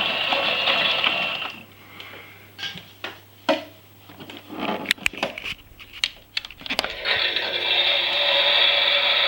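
Toy Miele washing machine running with a steady whirring hiss that stops about one and a half seconds in. A few separate clicks and knocks follow, and the hiss starts up again about seven seconds in.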